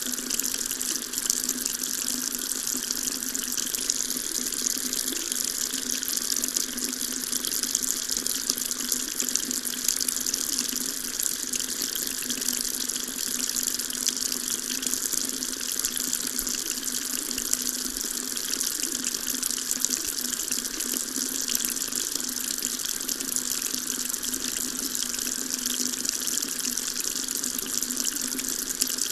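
Water running steadily from a tap, a continuous splashing hiss with no change in flow.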